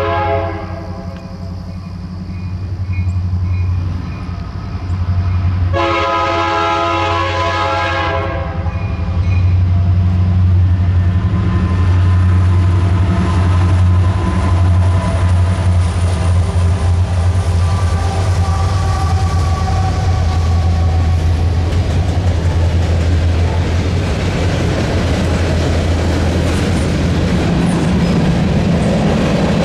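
Canadian National SD60 diesel-electric locomotives with two-stroke EMD engines approaching and passing, sounding their horn: the end of one blast right at the start, and a second blast of about three seconds around six seconds in. Under both runs the steady drone of the diesel engines, and through the second half the rumble and clatter of the train's wheels on the rails grows louder.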